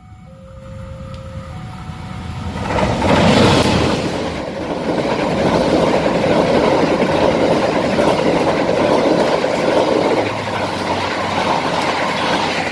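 A train passes close by at speed. Its rumble and wheel noise swell in about three seconds in and stay loud and steady for most of the pass.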